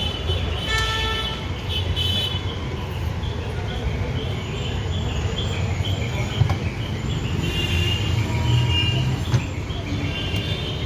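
Busy road traffic: vehicles running with car horns tooting now and then, and voices in the background.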